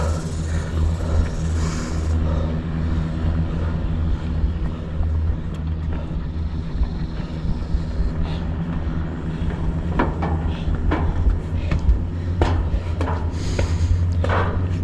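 Steady low rumble on the microphone throughout, with several short sounds near the end.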